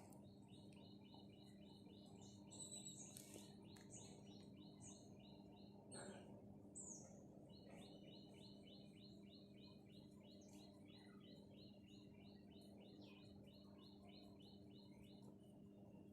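Faint small bird chirping in two long, rapid series of repeated high notes, about four a second, with a short break in the middle, over a steady low hum.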